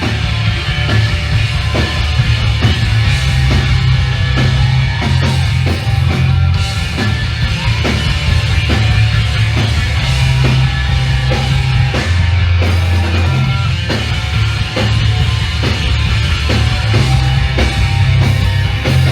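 Hardcore punk band playing live and loud: heavily distorted guitars and bass over a steady, driving drum beat.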